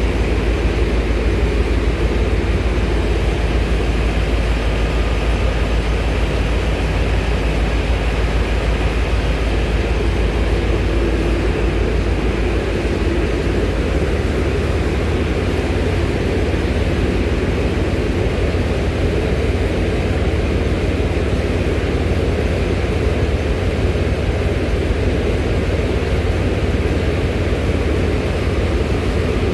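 Steady, loud low rumble of running machinery or a moving vehicle, unchanging, with no distinct knocks or events.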